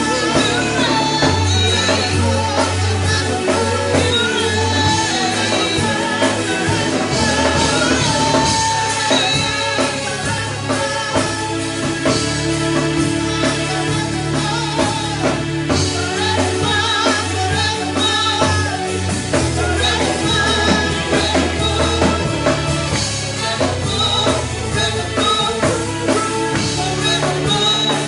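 Worship band music: singing over a drum kit and other instruments, with held low notes changing every few seconds.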